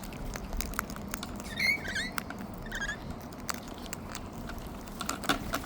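Wild cockatoo's beak and claws making scattered small clicks and scratches, with a few soft short chirps about two seconds in and again near three seconds.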